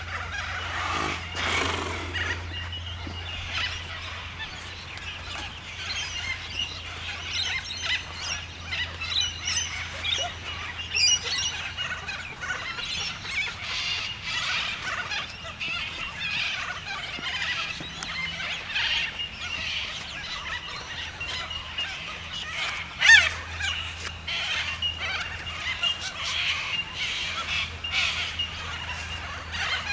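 Outdoor birds calling with many short chirps, and one louder call with a falling pitch about three-quarters of the way through, over a steady low background hum.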